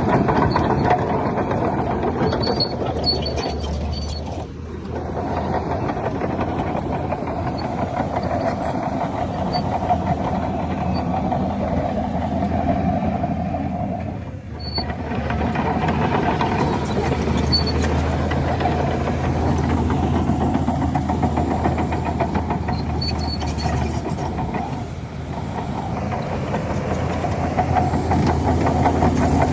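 Heavy diesel engine of a Shantui DH17C3 bulldozer running steadily as it works, with short dips in level about every ten seconds.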